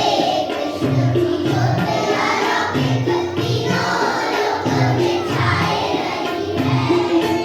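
Indian devotional song with children's voices singing, over held instrumental notes and a regular drum beat.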